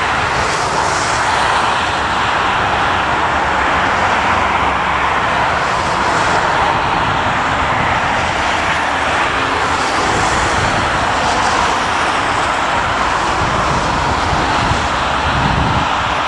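Jet airliner engines running with a steady, loud rushing noise.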